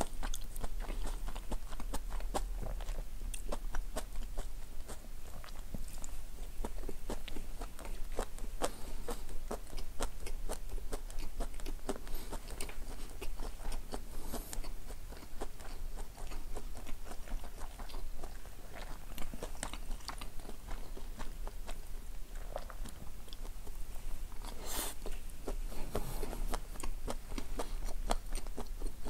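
A person chewing food with the mouth close to the microphone: a continuous run of small wet mouth clicks and smacks, with one louder click near the end.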